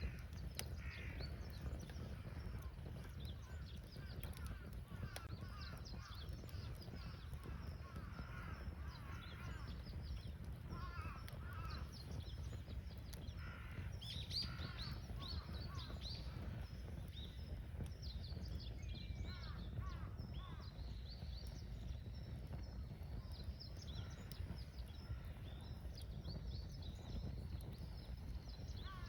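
Wild birds chirping and calling throughout, busiest in the middle, over a steady low rumble and faint small crackles from a burning wood fire.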